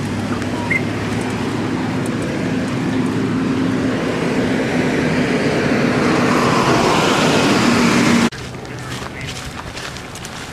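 Road traffic: a vehicle's tyre and engine noise swelling as it draws closer, cut off abruptly about eight seconds in, leaving quieter background noise.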